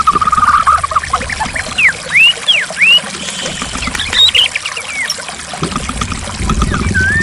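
White-rumped shama singing: a fast trill, then loud swooping whistles rising and falling, over the steady sound of flowing water. A low rumble joins in near the end.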